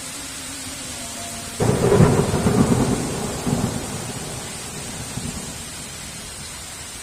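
Steady heavy rain, with a thunderclap breaking in sharply about one and a half seconds in. Its crackling rumble surges again a moment later, then rolls off over the next few seconds.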